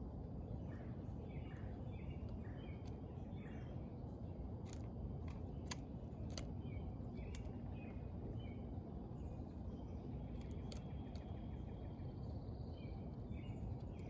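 Small birds chirping in short repeated notes, busiest in the first few seconds and again near the end, over a steady low outdoor rumble, with a few sharp clicks midway.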